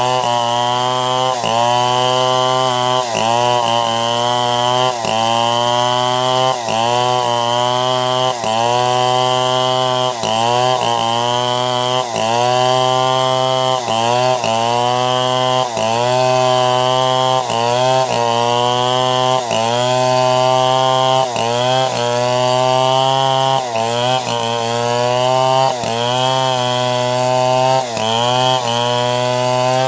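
Two-stroke chainsaw running under load while cutting wood into boards, loud and continuous, its engine note dipping and recovering about once a second as the bar is worked through the cut.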